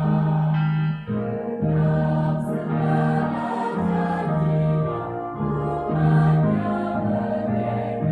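Church choir singing a hymn in several parts, with held chords that change about once a second.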